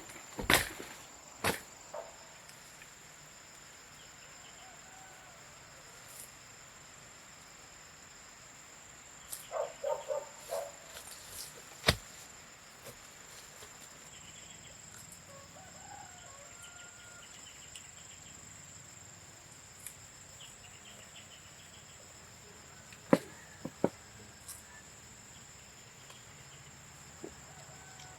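Chickens clucking: a quick run of short clucks about ten seconds in and a few fainter ones later, over a steady high-pitched insect drone. A few sharp knocks sound near the start, in the middle and about two-thirds through.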